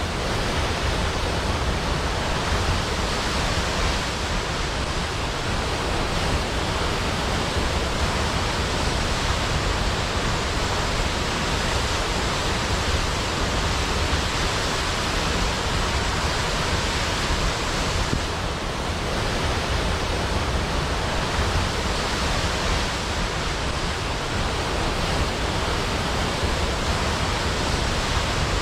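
Large waterfall plunging into a pool: a steady, unbroken rush of falling water with a deep low rumble beneath.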